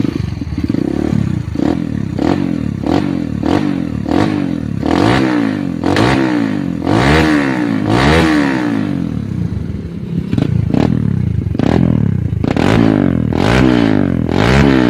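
Kawasaki KLX single-cylinder four-stroke dirt bike engine with an aftermarket exhaust, revved in repeated quick throttle blips that rise and fall in pitch, with a few longer, higher revs about halfway and again near the end.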